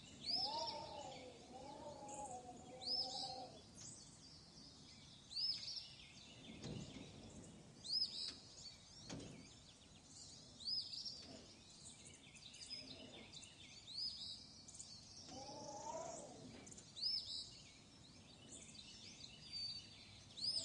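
Small birds chirping: short, high notes repeated every second or two over a faint steady background hiss. A lower, wavering call sounds twice, near the start and about three-quarters of the way in.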